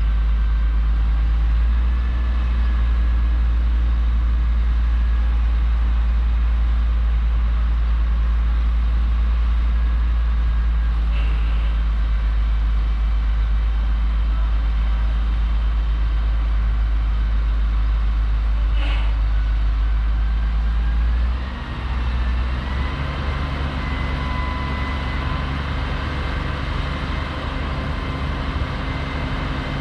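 Heavy diesel farm machinery running steadily under load during hay chopping. About 21 seconds in the sound dips briefly, then the engine pitch steps up and holds higher.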